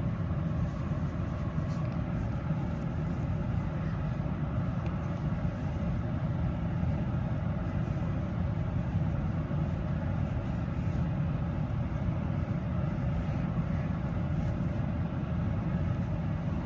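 Steady low vehicle rumble that does not change, with a fainter hiss above it.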